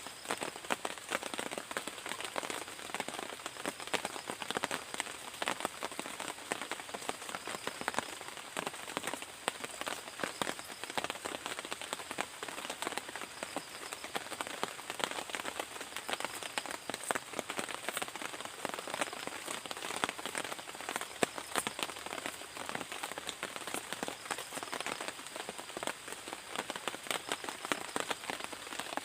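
Heavy rain falling steadily, the dense patter of many drops striking surfaces close by, with a faint steady high-pitched tone over it.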